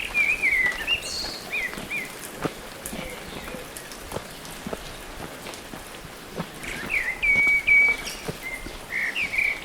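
A songbird calling in quick runs of short chirps and whistled notes, one run at the start and another from about seven seconds in, over scattered light clicks and crackles.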